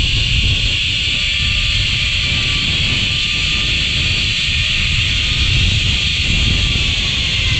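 Zipline trolley pulleys running along the steel cable with a steady high whir, over low wind rumble on the microphone.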